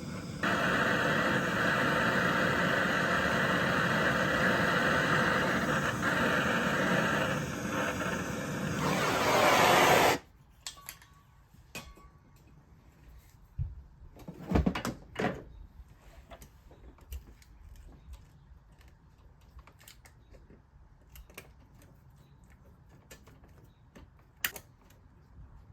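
A tool runs with a steady, loud hissing whir and a faint whine for about ten seconds, rising just before it cuts off suddenly. A few knocks and clicks follow.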